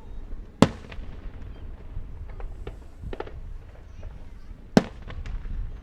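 Fireworks going off: two sharp, loud bangs about four seconds apart, with several smaller pops between them.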